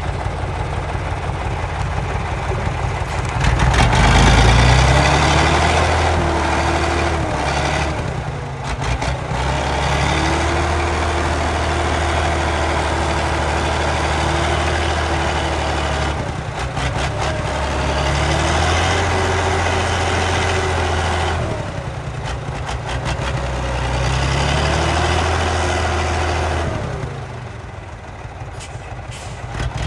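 A heavy diesel engine runs and is revved up and held four times, dropping back to idle between each rev and again near the end.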